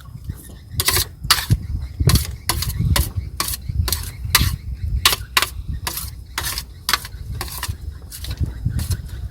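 Eating sounds close to the microphone: a quick, uneven run of sharp clicks and smacks, about two or three a second, over a low rumble.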